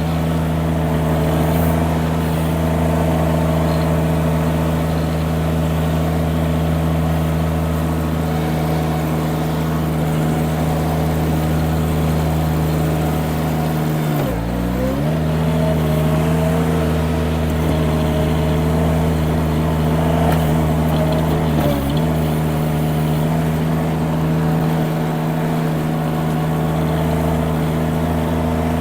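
Mini skid steer engine running steadily at high revs while the machine moves dirt and stone, bogging down briefly twice under load, about halfway and about three quarters through, then recovering.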